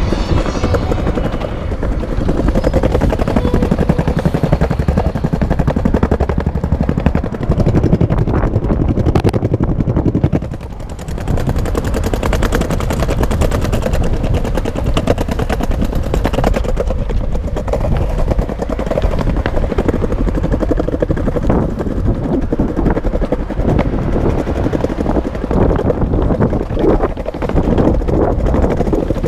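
Longboard wheels rolling over pavement: a steady, loud rumble with a fine rapid clatter from the surface texture, easing briefly about ten seconds in.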